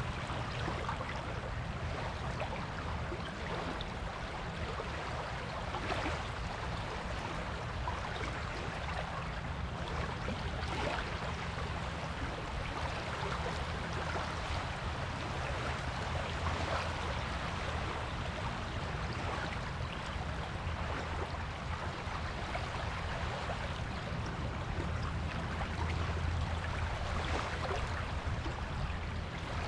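Ocean surf on a beach: a steady rush of washing waves over a low rumble, swelling gently now and then with no single sharp break.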